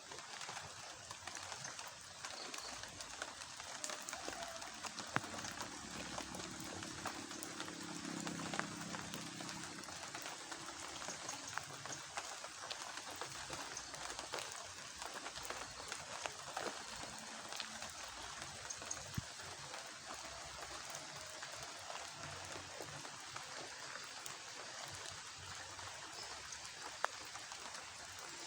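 Rural outdoor ambience: a steady, dense patter of tiny ticks over a hiss, with a low hum for a few seconds about six seconds in.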